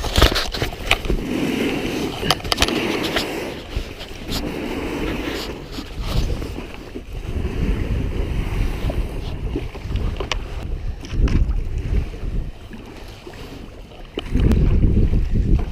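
Kayak being paddled through choppy water in strong wind: water splashing and sloshing in swells every couple of seconds, with scattered sharp clicks. Wind buffets the microphone throughout, with a loud low rumble in the last second or so.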